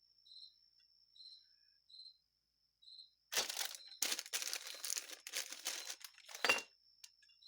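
Plastic packaging crinkling and rustling as it is handled, starting about three seconds in and lasting about three seconds. Before it, a cricket chirps faintly about once a second.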